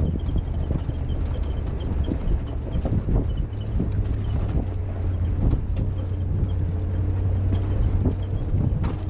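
Ram 1500 Rebel pickup driving slowly over a rocky trail: a steady low engine hum under frequent irregular knocks and clicks from the tyres on rock and the truck rattling over the rough ground.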